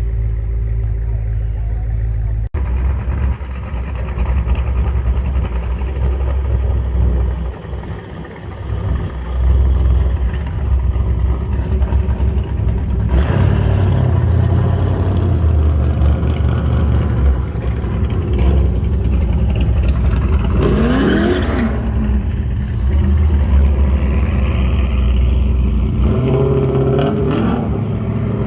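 Car engines running, with a heavy low rumble and bouts of revving, the pitch sweeping up and down about three-quarters of the way through.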